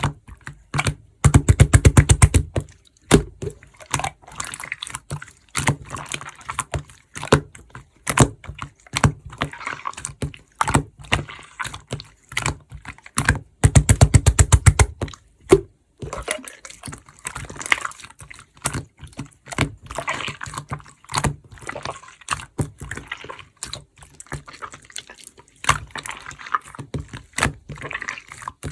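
Purple marbled slime being squished, pressed and stretched by hand, making wet clicks and pops. Twice, about a second in and again near the middle, it gives a quick run of loud, rapid popping for a second or so.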